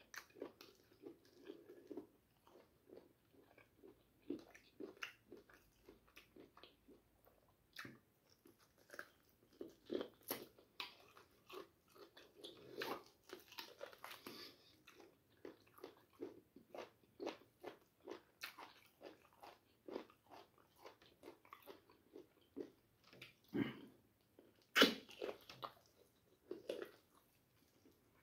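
Close-up mukbang eating sounds: a man biting and chewing a piece of meat held in both hands, with many short, sharp mouth and lip sounds in an uneven run and the loudest one about 25 seconds in.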